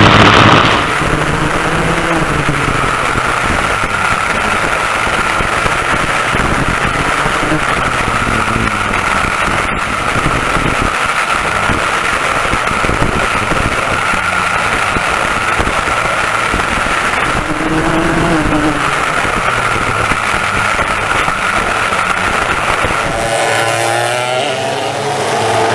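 Vintage dual-rear-engine racing kart running at speed under heavy wind noise, the engine note rising and falling through corners and climbing again near the end.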